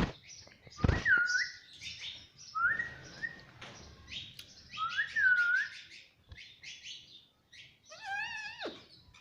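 Indian ringneck parrot calling: four short whistled calls that bend in pitch, a couple of seconds apart, with scratchy chattering between them.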